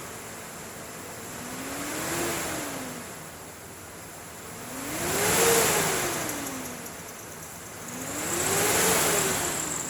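2006 GMC Envoy SLE engine revved three times from idle, each rev rising and falling back over about two seconds, the second rev the loudest.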